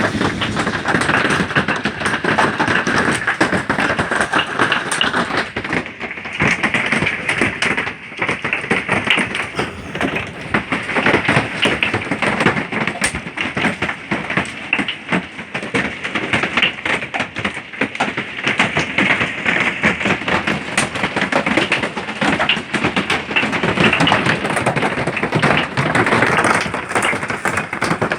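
Golf-ball-size hail coming down hard, a loud, continuous clatter of countless sharp cracks and thuds over the hiss of rain.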